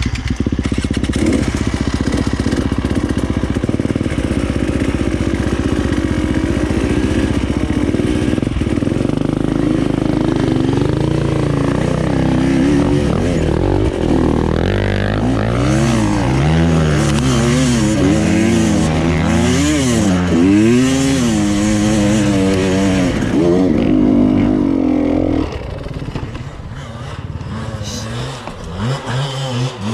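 Enduro motorcycle engine under way off-road. It runs steadily at first, then from about ten seconds in revs up and down again and again as the throttle is worked, and eases off to a lower level near the end.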